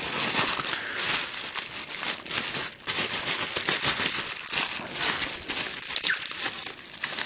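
Packaging being crinkled and torn as it is pulled off an instruction booklet: continuous crackly rustling with many small snaps.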